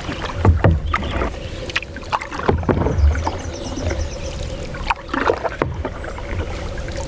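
A canoe being paddled: paddle strokes and water moving against the hull, with scattered sharp knocks.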